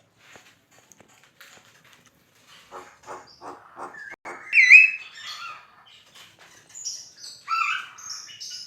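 Javan myna singing. It starts with a few faint clicks, then gives a quick run of harsh notes, a single loud whistle about halfway through, and a jumble of squeaky whistles and chatter near the end.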